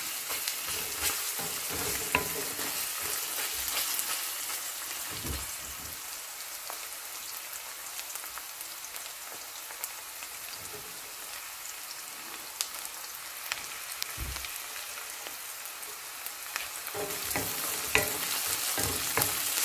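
Sliced onions, garlic and green chillies sizzling steadily in hot oil in a metal karahi, with a wooden spoon clicking and scraping against the pan now and then as they are stirred.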